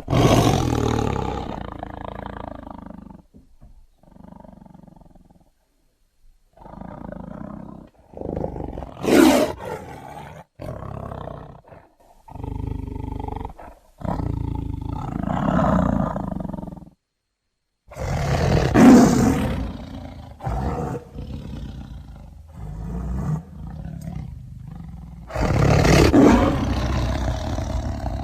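Tiger roars, a string of about ten separate sound-effect clips of the film tiger Shere Khan, each one to three seconds long, cut apart by brief gaps of dead silence.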